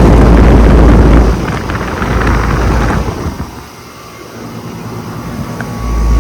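Outdoor air conditioner condenser running, its fan discharge blowing onto the microphone as a heavy, low rumble. The rumble drops away after about a second, then comes back near the end.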